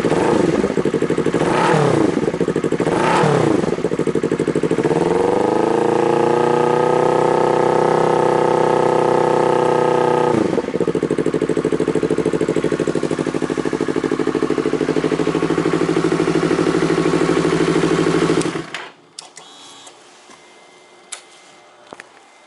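Yamaha YZF-R25's parallel-twin engine running through an aftermarket exhaust. It is blipped twice, then held at higher revs for about five seconds before dropping back to a steady idle. The engine is switched off near the end, followed by a few faint clicks.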